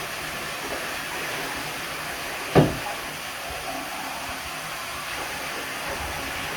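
Steady hiss of water running into a bathtub, with one sharp knock about two and a half seconds in.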